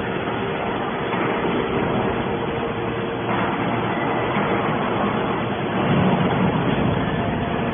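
Automatic hydraulic scrap baler running: a steady machine noise with a faint hum, swelling a little about six seconds in.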